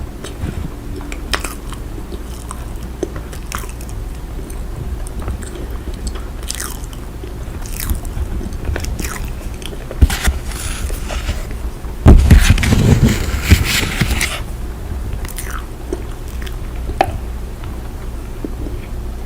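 Cornstarch squeezed and pressed, giving crackly, squeaky crunching in irregular bursts, with a louder, denser stretch of crunching about twelve seconds in. A steady rain-like hiss underneath.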